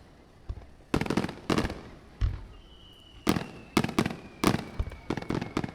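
Fireworks display: a rapid series of sharp bangs from shells bursting overhead, some with a deep thump, and a faint high whistle slowly falling in pitch through the second half.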